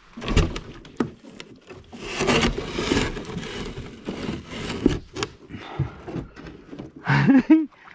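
A loaded kayak's hull scraping and knocking over the rocky bottom in shallow water, dragging bottom under the weight of the stones. A short vocal sound comes near the end.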